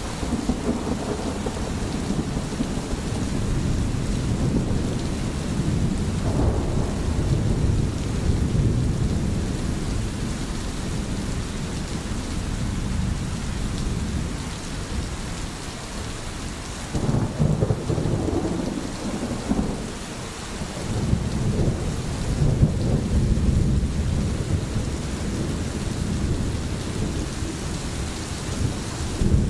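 Steady rain with low, rolling rumbles of thunder that swell about a fifth of the way in and again a little past the middle.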